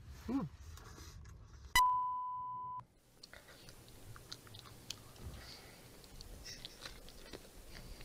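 Faint chewing and mouth sounds of someone eating pizza, with a brief vocal sound just after the start. Nearly two seconds in, a single steady electronic beep cuts in sharply and lasts about a second; it is the loudest sound.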